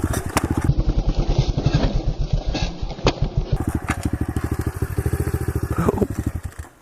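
125cc SSR pit bike's single-cylinder four-stroke engine idling with a slow, even putter, fading away near the end.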